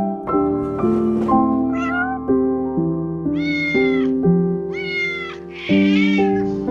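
A cat meowing several times, with the longer meows coming about a second apart in the second half, over background keyboard music of short, evenly paced notes.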